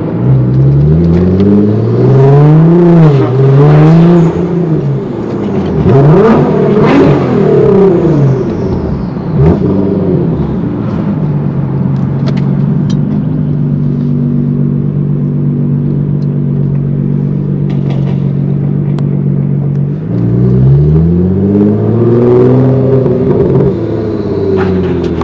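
Car engine revved several times, its pitch rising and falling, then idling steadily, then revved up and back down once more near the end.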